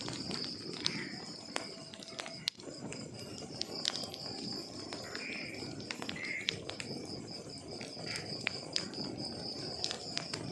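Wood fire crackling, with frequent sharp pops and snaps over a low steady rush of flames. Crickets chirp steadily throughout in a high, rapidly pulsing trill.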